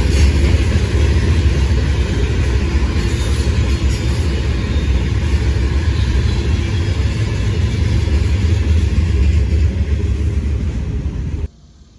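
CSX freight train rolling past, a loud steady rumble of wheels on rail. It cuts off suddenly near the end.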